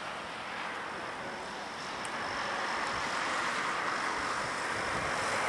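Heritage train running past just after sounding its horn: a steady rushing rail noise that slowly grows louder.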